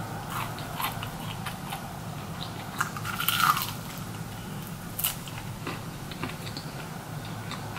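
Biting into and chewing a fried lemon pepper chicken wing close to the microphone, with a loud crunchy bite about three seconds in, a smaller one about five seconds in, and scattered wet mouth clicks.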